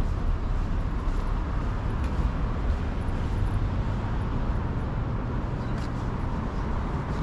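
Steady city traffic: a low rumble of passing cars and engines, with a few faint short ticks.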